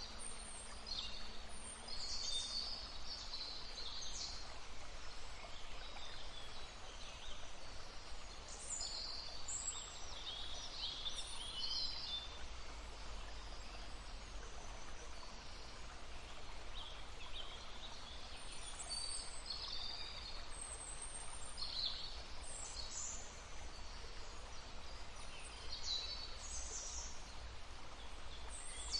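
Several songbirds singing and calling in short high chirps and trills throughout, over the steady murmur of a stream.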